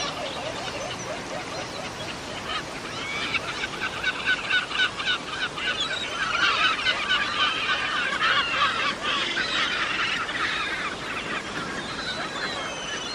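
A chorus of many birds calling at once: rapid, overlapping chirps and chattering notes over a steady outdoor hiss. The calling grows denser and louder from about three seconds in, then eases off again near the end.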